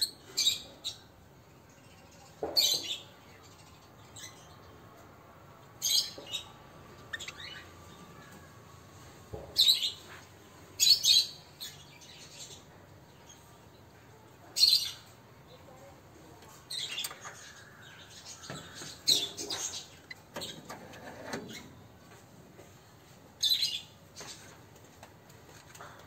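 Caged Java sparrows giving short, sharp chirps, singly and in quick pairs, at irregular intervals of a second to a few seconds.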